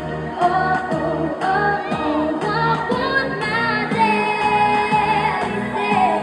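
A girl's voice singing a pop song over a backing track with a steady beat.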